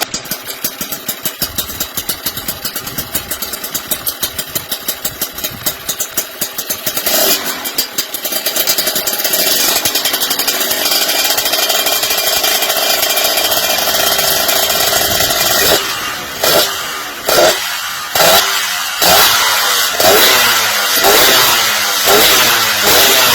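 Kawasaki JR120 two-stroke motorcycle engine idling with a pulsing, uneven beat, then held at higher revs from about eight seconds in. From about sixteen seconds in the throttle is blipped repeatedly, each rev rising and dropping back about once a second.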